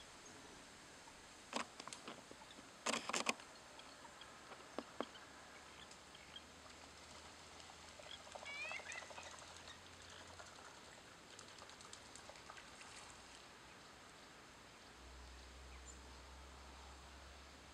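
Faint outdoor hiss with a few sharp clicks, the loudest a quick cluster about three seconds in, and a short run of quick bird chirps about eight seconds in.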